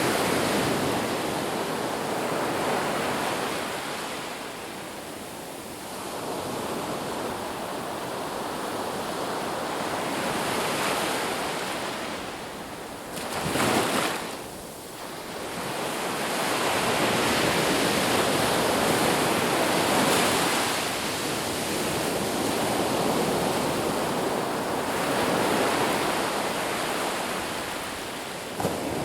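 Sea waves breaking and washing on a shore, swelling and ebbing every few seconds, with one sharper crash about halfway through.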